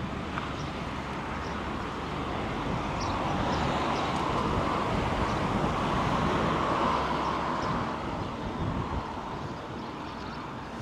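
Road traffic rushing past, swelling to a peak around the middle and then fading as a vehicle goes by, with some wind noise.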